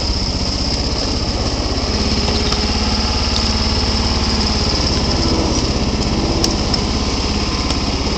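Bolens garden tractor's engine running steadily as the tractor is driven along.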